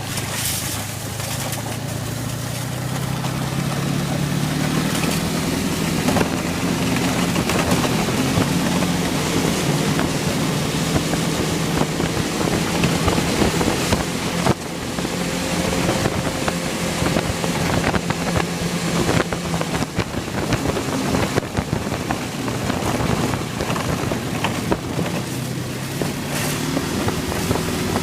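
Boat motor running under way, its pitch rising over the first few seconds and then holding steady, with wind on the microphone and water noise.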